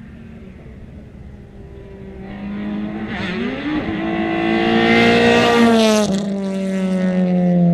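Rally car engine at full throttle, coming closer and rising in pitch for a few seconds, then its note drops sharply about six seconds in as the throttle lifts, running on at a lower, steady pitch.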